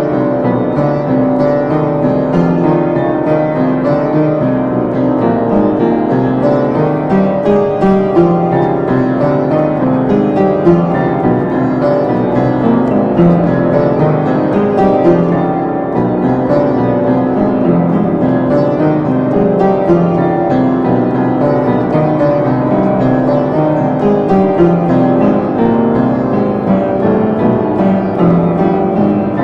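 Piano music, played continuously.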